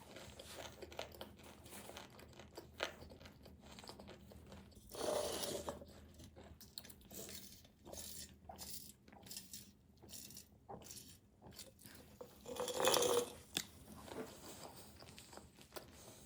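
Close-miked eating of tomato pizza: chewing with many small wet clicks and crunches of crust. Two louder, longer crunching sounds come about five seconds in and again near thirteen seconds.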